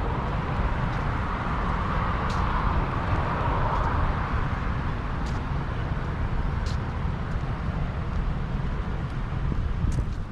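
Road traffic with a steady low rumble, one vehicle swelling past about two to four seconds in. Faint short high chirps come through now and then.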